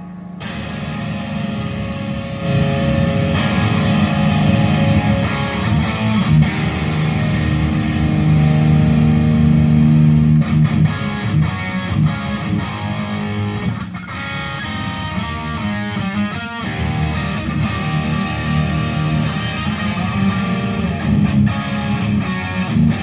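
Electric guitar with P90 pickups played through a Tech21 SansAmp GT2 distortion pedal into a Laney amplifier: distorted chords and single notes, picked and let ring. The playing gets louder about two seconds in.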